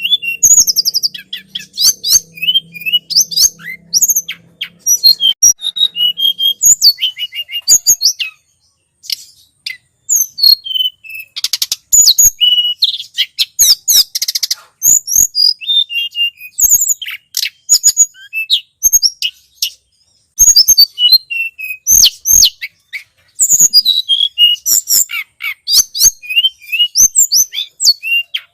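Tledekan gunung songbird calling: dense runs of rapid, high-pitched chirps and trills with quick up-and-down notes, in a lure recording played to attract the same species.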